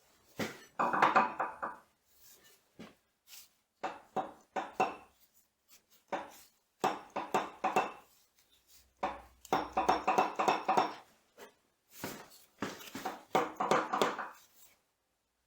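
Steel machine parts knocking and ringing in short clusters of quick strikes, with pauses between.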